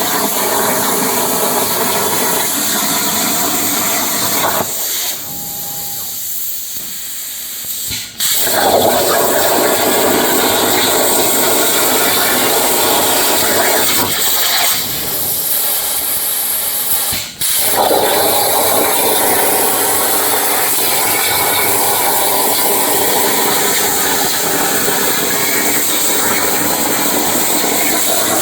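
CNC plasma cutter hissing steadily as its arc cuts through a steel saw blade. Twice the hiss drops to a quieter level for a few seconds, then comes back in sharply at full level.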